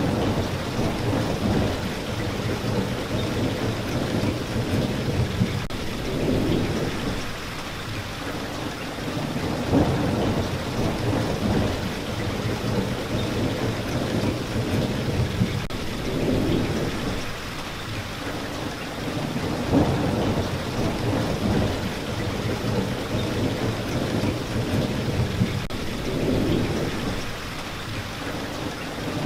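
Steady rain falling, with low rumbles of thunder swelling and fading every few seconds.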